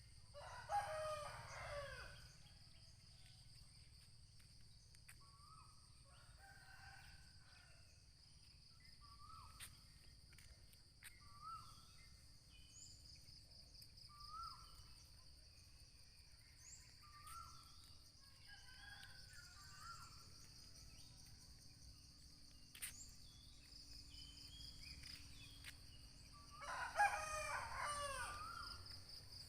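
Roosters crowing: one loud crow about a second in and another near the end, with fainter crows between. Under them runs a steady high insect drone, with short repeated bird chirps.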